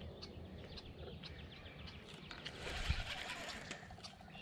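Quiet pond-side outdoor ambience: faint bird calls and a fine rapid ticking. About three seconds in there is a brief rustle with a low thump.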